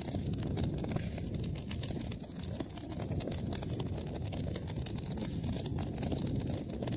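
Wood fire burning in a fireplace: a steady low rumble of flames with many small, quick crackles throughout.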